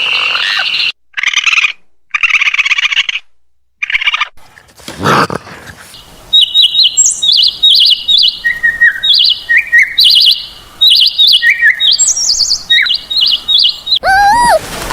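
Buzzy, croaking animal calls in a few short bursts, then a bird singing a long run of quick, short chirps that jump between pitches, until a different call with a sliding pitch cuts in near the end.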